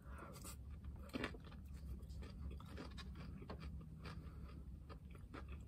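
A person chewing a mouthful of food, faint, with a few short light clicks and scrapes of a plastic fork on its bowl, over a low steady hum.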